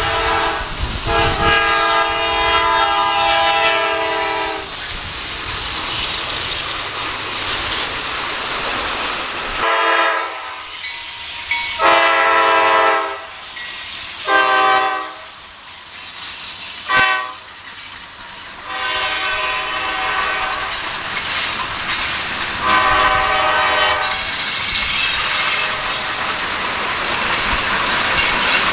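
Locomotive air horn blowing a series of long and short blasts over the steady noise of a train moving on the rails.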